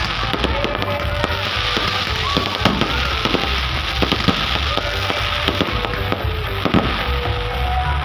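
Fireworks display going off: continuous crackling of many bursting shells, with frequent sharp bangs and pops throughout. Music plays along with it.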